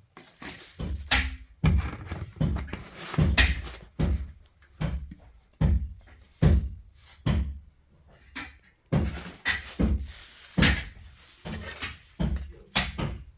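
A run of irregular knocks and thuds, about one or two a second, with a short lull about two thirds of the way through.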